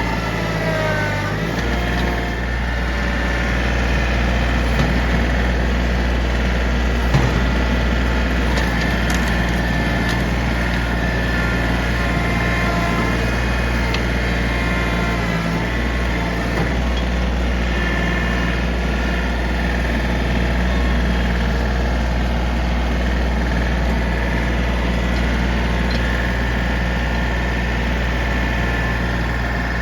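Diesel engine of heavy equipment running steadily. Its pitch shifts slightly in the first couple of seconds, and there is one sharp knock about seven seconds in.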